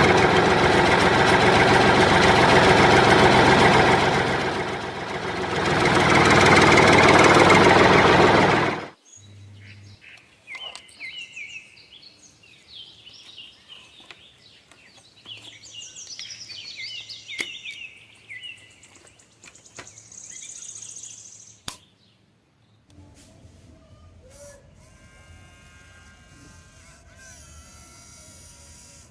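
A small electric motor runs loudly with a rough whirr for about nine seconds, then stops suddenly. Birds chirp faintly afterwards, and near the end a small motor buzzes quietly.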